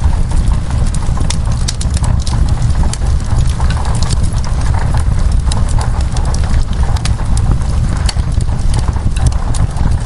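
Wood fire crackling, with many irregular sharp pops over a steady low rumble, and rain falling on window glass.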